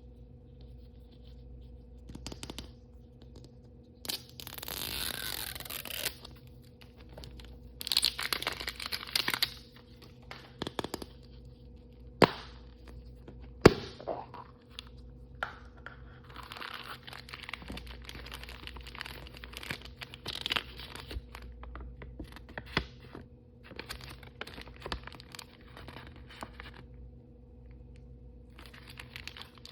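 Plastic blind-bag and surprise-toy packaging being torn open and crinkled by hand, in separate bursts. Two sharp clicks about halfway through stand out as the loudest sounds.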